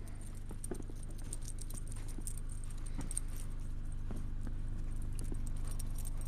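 A car engine idling steadily, its low hum slowly growing louder, with scattered light high-pitched clicks and jingles over it.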